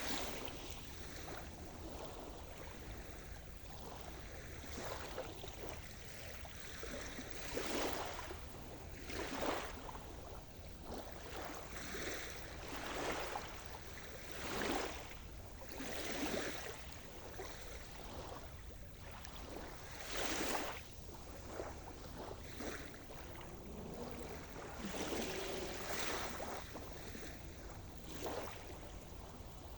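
Sea surf: small waves breaking and washing in one after another, swelling and fading every couple of seconds at an uneven pace.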